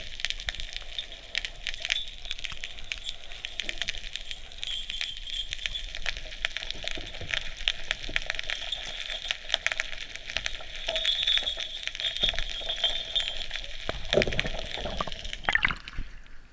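Dense crackling of countless tiny clicks and snaps over a steady hiss, typical of the sea heard underwater by an action camera.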